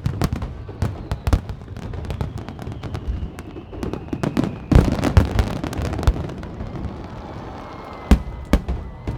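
Fireworks going off: a continuous run of sharp bangs and crackles, thickest about five seconds in, with a loud single bang near the end.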